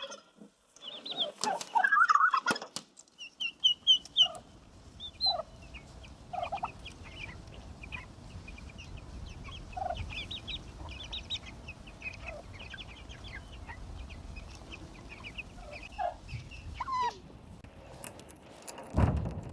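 Turkey poults peeping: many short, high chirps, with a few lower clucking calls from an adult bird in between and louder calls in the first three seconds.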